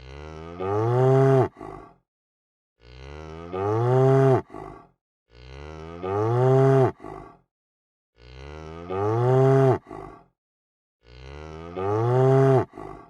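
A cow mooing five times in a row, each moo about two seconds long, rising then falling in pitch and ending in a short low tail, with silent gaps between. The moos look identical: one call repeated as a sound effect.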